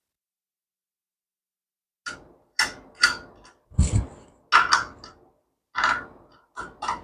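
A run of about ten sharp knocks and clanks, roughly two a second, beginning about two seconds in, with one heavier, deeper thud in the middle and a short ring after each: hand tools striking and handling metal parts on the minibike's drive sprocket.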